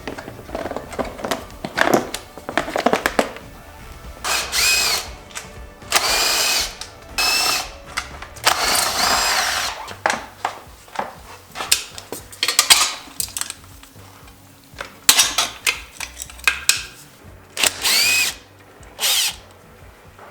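Cordless power drill or driver running in a series of short bursts, each spinning up and winding down, as bolts are taken out of a 2001 Yamaha YZ125 dirt bike being stripped down. Clicks and clinks of tools and parts fall between the bursts.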